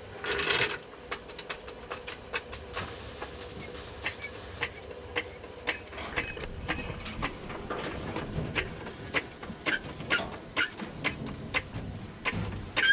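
Hand-tool work on metal: a run of sharp, irregular clicks and knocks, with a brief hiss about three seconds in.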